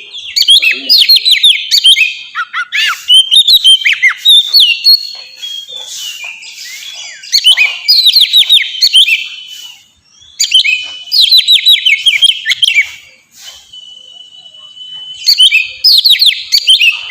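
Oriental magpie-robin (kacer) in full, loud song: phrases of rapid down-slurred whistled notes in quick runs. There is a brief pause about ten seconds in, then a steady held whistle note before the last phrase.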